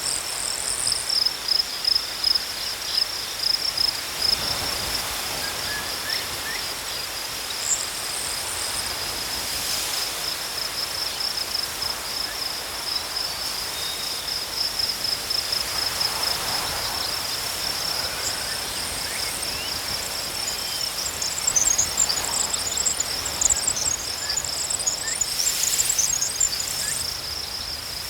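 Crickets chirping in a steady, rapidly pulsing high trill, with shorter, higher-pitched bursts of chirping coming and going over it.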